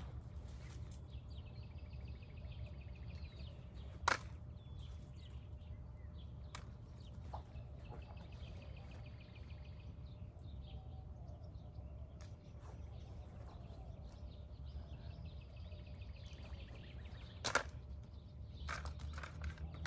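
Sharp clicks now and then as snails are dropped into a bucket, over a steady low rumble. A rapid high trill comes and goes three times in the background.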